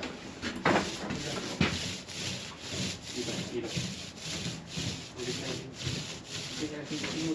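Paint roller being worked back and forth over a wall, a rhythmic rubbing sound of about three strokes a second, with two sharper strokes near the start.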